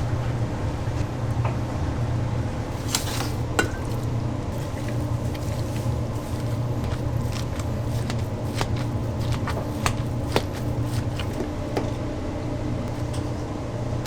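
Kitchen work over a steady low hum of machinery: scattered clicks and knocks of things being handled and set down.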